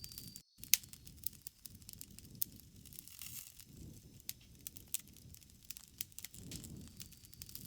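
Wood campfire crackling: a low rustling flame sound with frequent sharp pops and snaps, the loudest about three-quarters of a second in.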